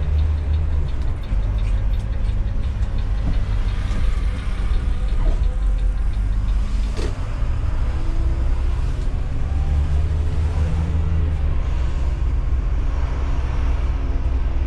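Intercity coach bus's diesel engine running while driving, a steady low drone that shifts in pitch a few times, with a single sharp click about halfway through.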